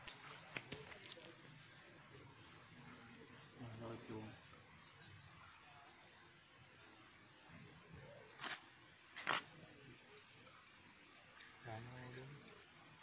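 A steady chorus of crickets, a high, rapidly pulsing trill that runs on without a break. Two sharp clicks come about eight and nine seconds in, and faint low voices murmur twice.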